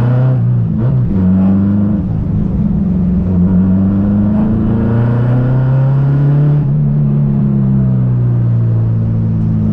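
Honda Civic EG6's B20B 2.0-litre four-cylinder engine running as the car is driven. Its pitch rises and falls with engine speed, with a brief dip about a second in.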